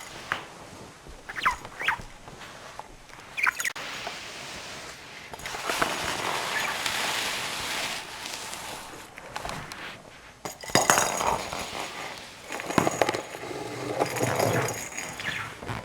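Budgerigar chirping a few short calls, followed by a few seconds of rustling and a sharp click, then more busy chatter and small knocks.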